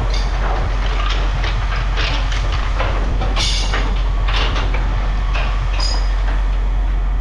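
Heavy machinery engine running with a steady low drone while scrap metal clanks and scrapes irregularly as it is moved.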